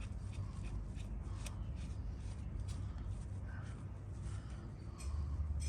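Faint, irregular metal clicks and scraping as a motorcycle's oil drain plug is screwed back in clockwise with a 17 mm socket. A low hum comes in near the end.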